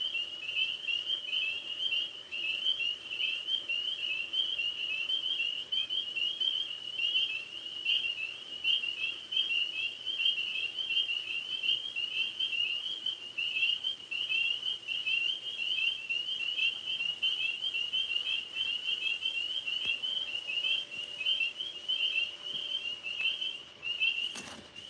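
A chorus of tree frogs calling without a break: many high calls overlapping in a dense, steady band. Near the end comes a brief thump.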